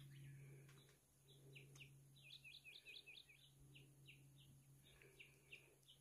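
Faint wild bird song: a run of short, high, falling whistled notes, coming quicker, about six a second, around the middle, over a steady low hum.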